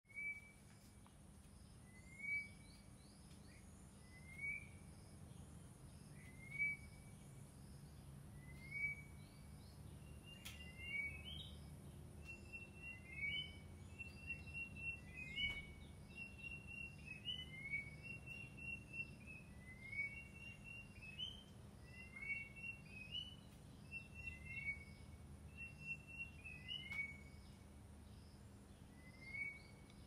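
Birds calling. One repeats a short rising call about every two seconds, and from about ten seconds in a second bird joins with quicker, higher calls. A low steady hum runs underneath.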